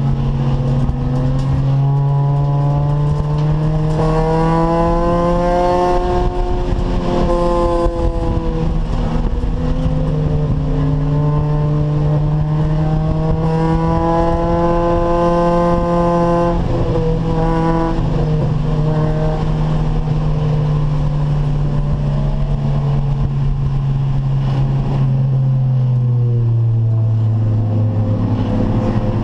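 Acura Integra race car's VTEC four-cylinder engine at full throttle on track, its pitch climbing for several seconds at a time and dropping sharply at gear changes about six and seventeen seconds in. It runs lower and steadier through the middle, falls away near the end, then climbs again.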